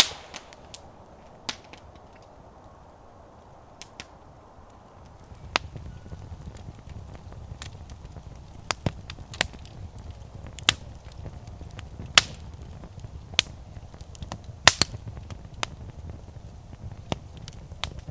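Wood fire burning, crackling with sharp pops at irregular intervals. A low steady rumble comes in about five seconds in, and several of the loudest pops come in the middle stretch.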